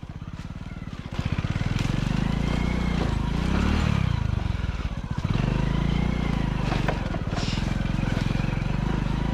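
Small single-cylinder commuter motorcycle engine under way, pulling at low speed at first and picking up about a second in, easing off briefly around five seconds in before pulling again.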